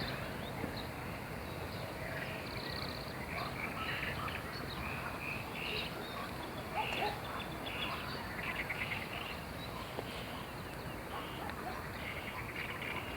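Small birds chirping and trilling in short scattered calls over a steady background hum, the buzzing of bees working the flowering hawthorn.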